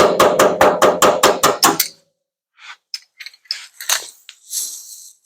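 Body hammer rapidly tapping sheet metal, about six blows a second, knocking down a ridge in a dented truck bed. The hammering stops about two seconds in, followed by a few lighter clicks and taps.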